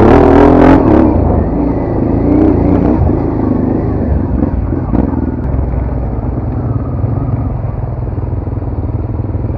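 Dual-sport motorcycle engine running at low, steady revs, with a loud burst of noise in the first second.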